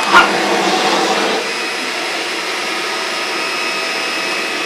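Household vacuum cleaner running steadily, a whooshing hum with faint steady whine tones, with a short sharp sound right at the start.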